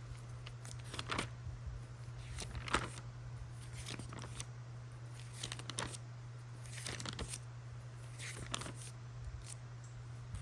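Paper being handled: irregular rustles, crinkles and small clicks of notebook pages being turned and smoothed, over a steady low hum.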